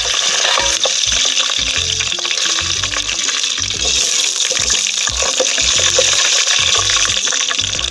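Cashew nuts and whole spices frying in hot ghee and oil in a cooking pot: a steady, loud sizzle, with the scrape and clink of stirring. Background music plays underneath.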